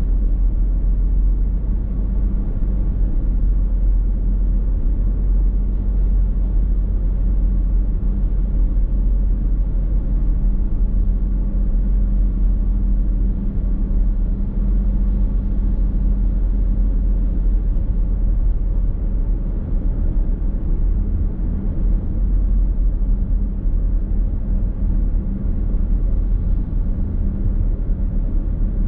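Car driving at steady speed, heard from inside the cabin: a constant low rumble of road and tyre noise, with a steady hum that weakens about halfway through.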